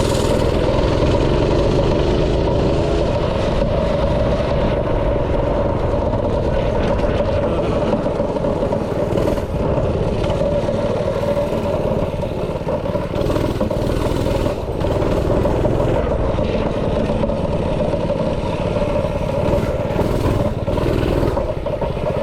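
Small engine of a backyard ride-on kart running continuously as it is ridden, its sound rising and falling a little with the throttle.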